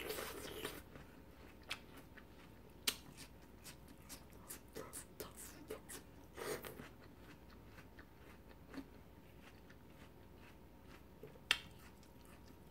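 Quiet eating of watermelon: scattered wet mouth clicks and smacks while chewing the flesh, with a short bite about six and a half seconds in.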